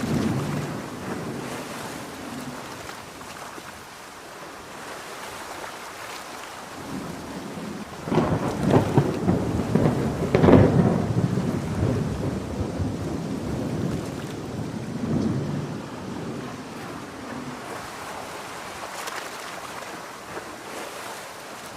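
Steady heavy rain with thunder. A loud thunderclap starts about eight seconds in, swells to its loudest a couple of seconds later and rumbles away, and softer rolls of thunder follow later.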